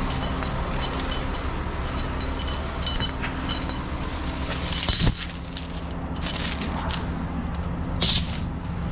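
Heavy-duty tow truck's diesel engine running steadily, with light metallic clinks over the first few seconds, a short noisy burst ending in a sharp knock about five seconds in, and another short burst near the end.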